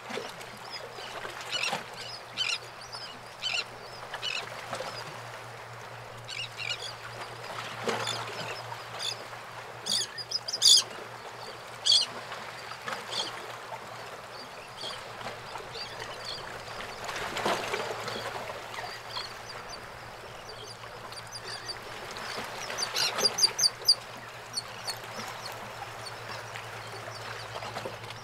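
Birds calling over a steady wash of outdoor noise, with short high calls repeated throughout and a quick cluster of them a few seconds before the end. A steady low hum runs underneath.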